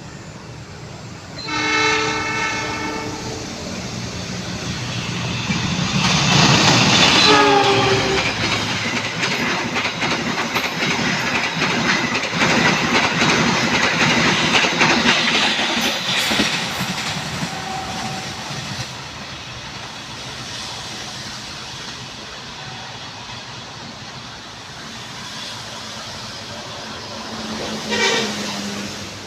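A train horn sounds a steady chord about two seconds in, and again with falling pitch as a fast train passes. The wheels clatter loudly over the station's switches and rail joints, then the noise fades. A short horn blast comes near the end.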